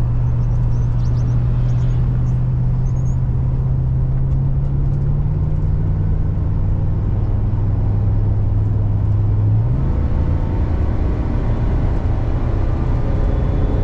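Car driving on a highway, heard from inside the cabin: a steady low engine and road drone with tyre noise. The drone's pitch steps down about five seconds in and changes again near ten seconds.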